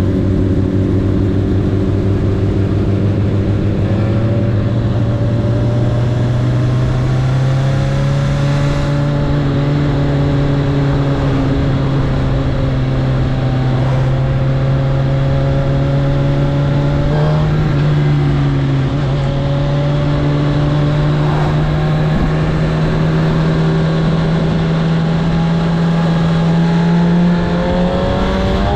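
Honda CB1000R inline-four engine running under load at steady mid revs. Its pitch climbs over the first several seconds and then holds level for a long stretch. The revs rise sharply near the end.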